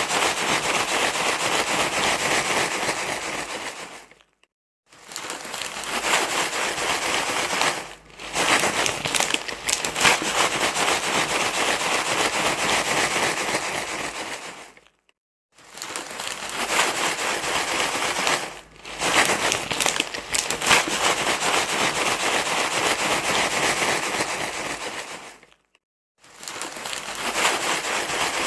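Continuous crinkling, crackly rustling, as of something being crumpled and scrunched, played as a baby-soothing noise. It comes in long stretches of about ten seconds, broken by short pauses about four, fifteen and twenty-six seconds in.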